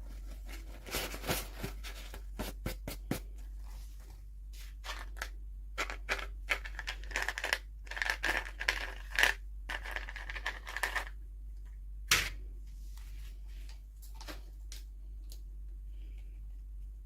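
Toy packaging being opened and handled by hand: irregular crinkling, scratching and tearing, broken by sharp clicks. The loudest click comes about twelve seconds in, after which only a few faint ticks remain.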